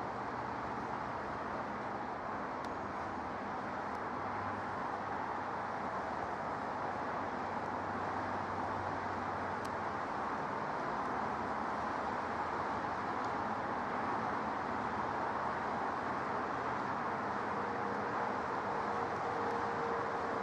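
Steady distant jet aircraft engine noise, a continuous rush that grows slightly louder, with a faint steady whine joining in near the end.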